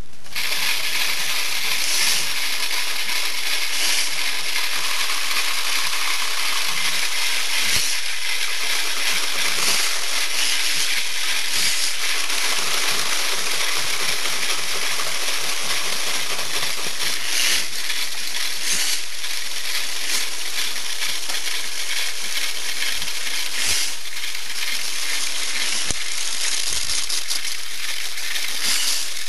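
Fine water spray hissing steadily onto a scale model car, with scattered small clicks of droplets striking its plastic body.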